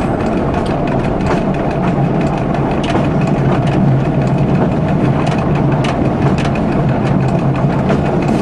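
Diesel local train running along the track, heard from the driver's cab: a steady low engine drone with irregular sharp clicks and knocks from the wheels on the rails.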